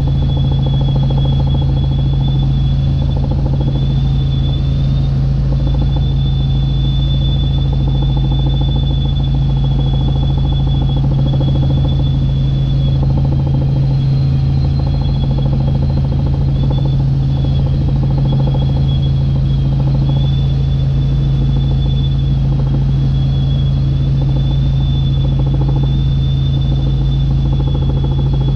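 Helicopter in flight, heard from inside the cabin: a steady, loud drone of engine and rotor with a low pulsing beat beneath it and a thin high whine on top.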